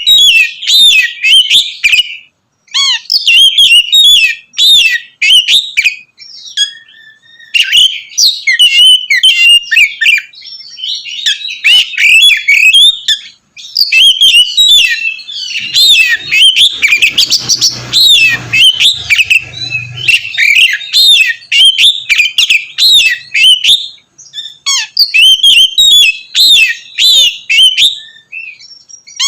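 Oriental magpie-robin (kacer) singing loudly and continuously, a rapid run of varied chirps and whistles broken by a few brief pauses.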